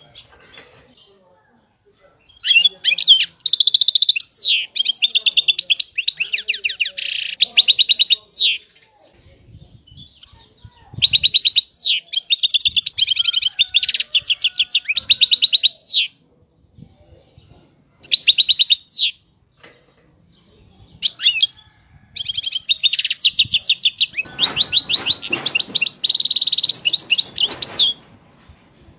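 European goldfinch singing in four phrases of rapid twittering trills and buzzy notes, separated by short pauses, the longest phrase near the end. A low rustling noise runs under the last phrase.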